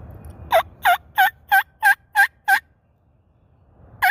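A run of seven loud hen-turkey yelps, evenly spaced at about three a second, made on a mouth diaphragm turkey call to keep a gobbler coming. A fresh run of yelps starts near the end.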